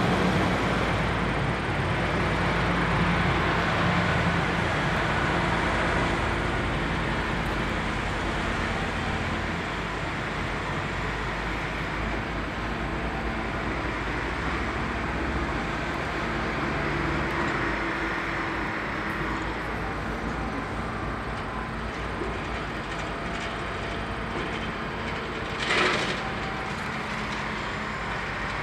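Freight train rolling through a rail yard: the railcars rumble past over a low steady hum, growing gradually quieter. A single brief, sharp clank comes near the end.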